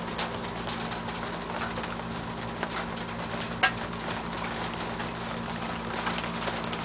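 Rain and hail falling steadily, with scattered sharp ticks of individual hailstones and drops striking nearby surfaces and one louder sharp hit about three and a half seconds in.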